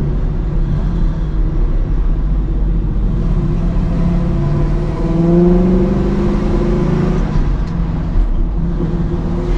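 Fuel-injected 396 big-block V8 of a 1970 Camaro running under way. The revs climb about halfway through, hold briefly, then fall back a couple of seconds later.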